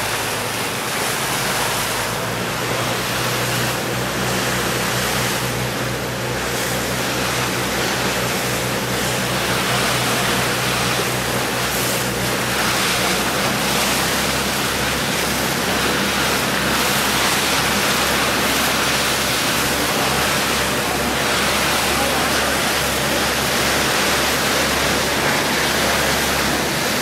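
Boat under way: a steady low engine hum under a constant rush of water and wind.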